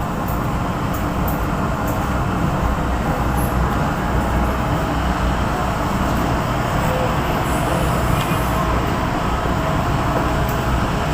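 Airliner engines running steadily, a loud even rush with steady whining tones in it that grows slightly louder.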